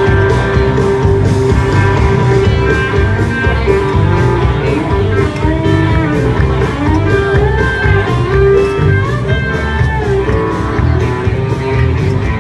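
Band music: an instrumental passage with guitar playing over a steady drum beat.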